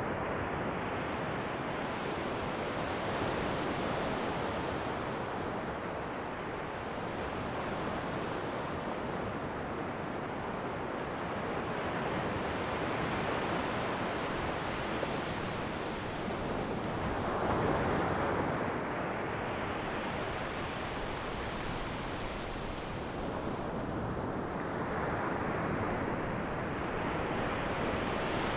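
Ocean surf: waves breaking and washing in as a steady hiss that swells in a few slow surges, the strongest a little past halfway.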